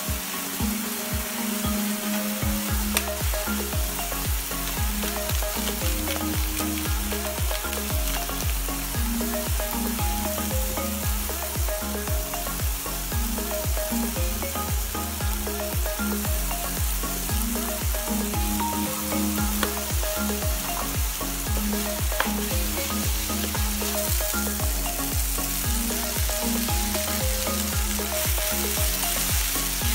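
Minced pork sizzling as it is stir-fried in a nonstick pan, with soy sauce and seasoning stirred through and holy basil leaves turned in near the end. Background music with a steady beat runs underneath.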